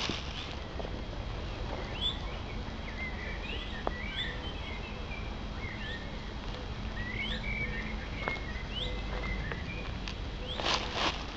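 Woodland birdsong: short, rising chirps repeated again and again, with other small calls among them, over a low steady rumble. Near the end come rustling footsteps through the undergrowth.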